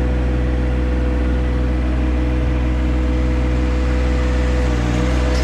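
John Deere tractor's diesel engine running at a steady speed, with a steady hum under it; nothing changes in pitch or level.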